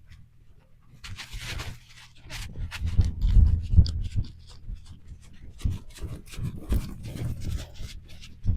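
Sounds from a beagle close to the microphone, among irregular rustling and scuffing noises, loudest about three to four seconds in.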